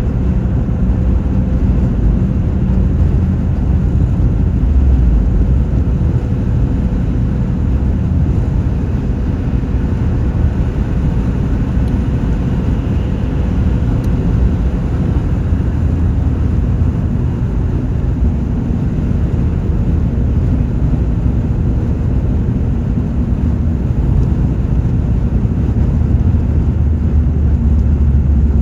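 Car driving along: a steady low rumble of engine and road noise, with a faint steady hum that fades out about halfway through.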